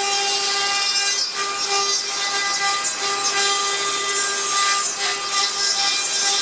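CNC router spindle cutting carbon fibre sheet: a steady high whine with a hiss of milling over it, dipping briefly now and then.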